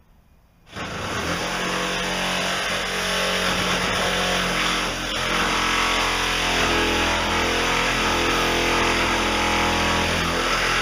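A vehicle engine comes in suddenly about a second in and runs loud and steady, with a brief dip in level about halfway through.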